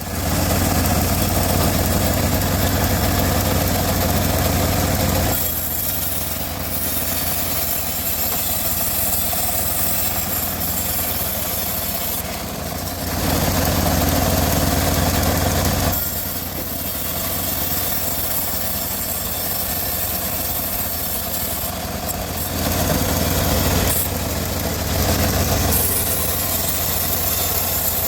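Homemade band sawmill running steadily, a continuous machine drone with a low hum that swells louder for a few seconds three times.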